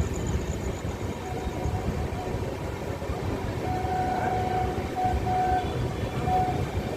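Train running with a steady rumble, and a thin steady tone that comes and goes in the second half.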